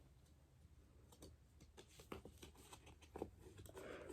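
Near silence, with faint scattered clicks and rustles of board-game pieces and cards being handled.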